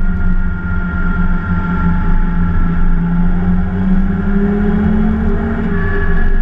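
BMW E30 325 race car's straight-six engine running hard, heard from inside the cabin; its pitch eases slightly, climbs again about four seconds in, and drops back shortly before the end.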